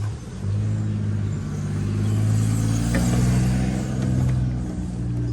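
A car engine running at a steady low speed, its pitch edging up slightly and then holding, loudest near the middle; a light click about three seconds in.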